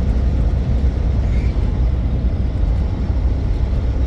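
Semi-truck on the move: a steady, low rumble of engine and road noise.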